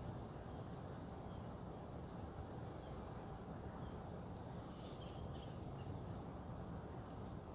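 Faint outdoor ambience: a steady low rumble with a few faint, short bird chirps, the clearest cluster about five seconds in.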